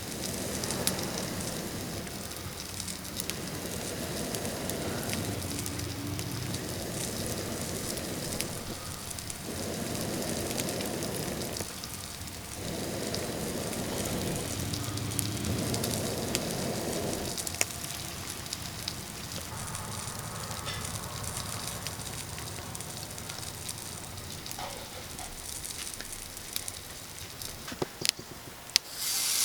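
Wood fire in a fire pit crackling and hissing, with scattered sharp pops.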